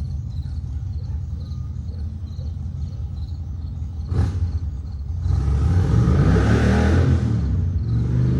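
A car passes by, its tyre and engine noise swelling and fading from about five to eight seconds in, over a steady low rumble. Crickets chirp faintly and evenly, and there is a single click about four seconds in.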